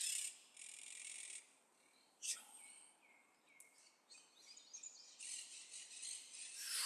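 Birds chirping and trilling: a string of short high calls, growing denser over the last couple of seconds.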